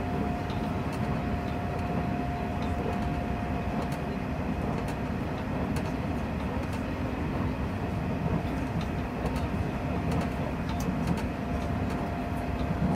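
Nishitetsu express train running at speed, heard from inside the passenger car: a steady rumble of wheels on rail, with a steady whine over it.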